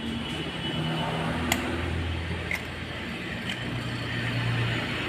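Motor traffic passing on a road, with a vehicle engine running and a single sharp click about a second and a half in.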